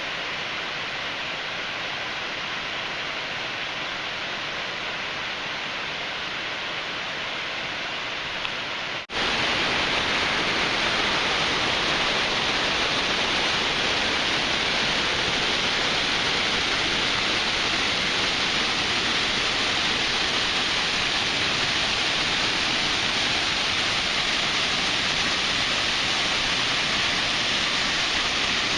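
Steady rushing of a waterfall. About nine seconds in it cuts suddenly to a louder, brighter rush.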